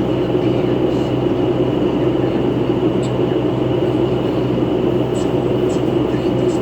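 Cabin noise of a 2011 New Flyer C40LF city bus under way: a steady, loud mechanical drone with a thin steady high whine over it and a few faint ticks.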